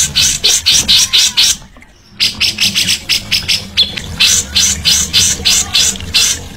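Cage songbird giving a rapid run of short, harsh rasping notes, about five or six a second. The run breaks off for about half a second near two seconds in, then resumes.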